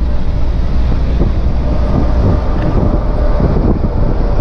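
Truck engine running under way with steady road and wind noise, the engine note rising and falling a little around the middle.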